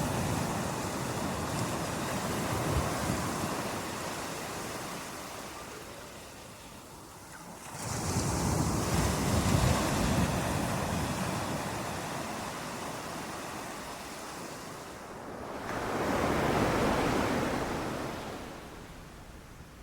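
Ocean waves breaking on a beach, each surge swelling and washing back. Three waves come in, at the start, about eight seconds in and about sixteen seconds in, with some wind noise on the microphone.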